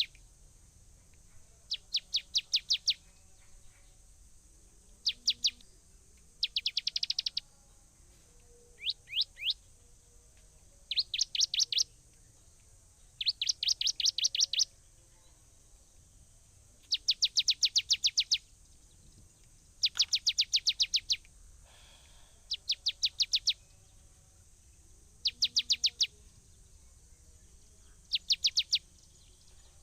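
A bird calling in repeated bursts of rapid, sharp chattering notes, about ten notes a second, each burst lasting about a second and recurring every two to three seconds, over a steady faint high hiss.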